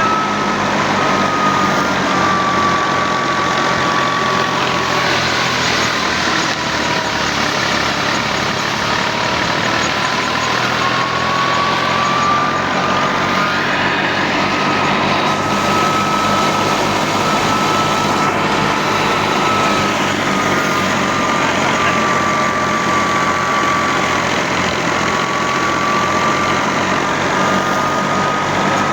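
Al-Ghazi tractor engine running steadily while working a mustard thresher. A high whine drifts slowly up and down in pitch over the engine's steady drone.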